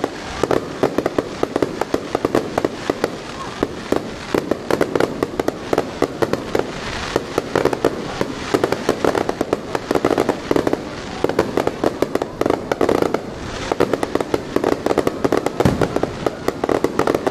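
Fireworks going off in a dense, unbroken run of bangs and crackles, several a second.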